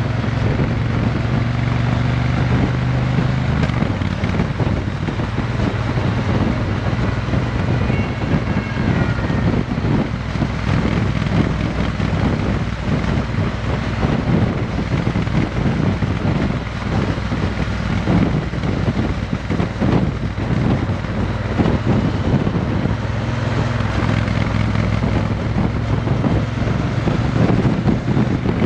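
Triumph Bonneville T120's parallel-twin engine running through a Vance and Hines exhaust, its note steady and shifting slightly in pitch a few seconds in, with heavy wind noise on the microphone.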